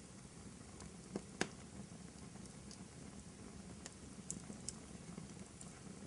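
Wood fire in a fireplace crackling softly over a low steady rumble, with two sharper pops close together about a second and a half in and a few lighter snaps later.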